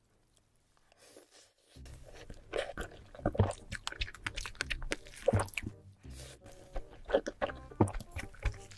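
Close-miked crunchy bites and chewing of chocolate: a string of sharp crackling crunches that starts about a second and a half in, after a near-silent moment.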